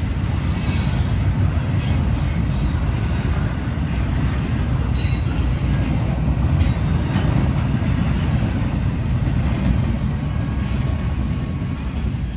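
Double-stack intermodal freight train rolling past: a steady low rumble of the cars on the rails, with high wheel squeal now and then, strongest in the first few seconds and again around the middle.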